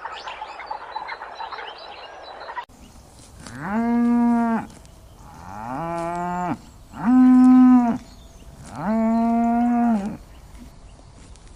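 Cow mooing four times in long, even calls of about a second each, the second one quieter and lower. Before the moos, for the first couple of seconds, there is a faint jumble of background noise that cuts off abruptly.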